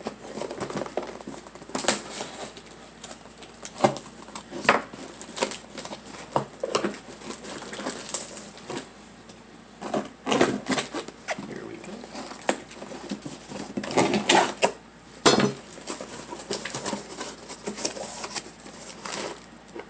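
Packing tape being ripped off and a parcel's cardboard and plastic packaging being torn open, crinkled and handled in irregular rips, rustles and knocks.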